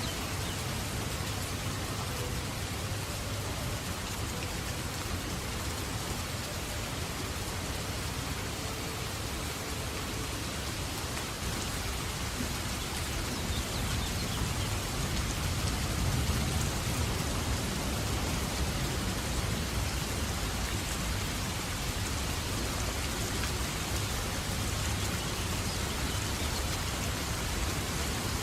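Steady rain falling in an even hiss, with a low rumble of distant thunder swelling about halfway through.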